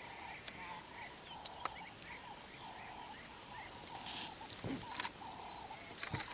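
Birds calling: a run of short repeated notes with brief chirps above them, a few clicks, and a cluster of short rustling bursts near the end.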